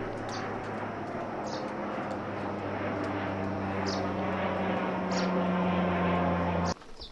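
An engine running steadily with a low hum, growing a little louder, then cutting off abruptly near the end. A few short, high chirps sound over it.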